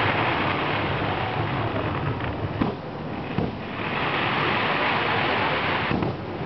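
Fireworks going off: two long swells of crackling hiss, with a few sharp pops or thuds between them, about two and a half seconds in.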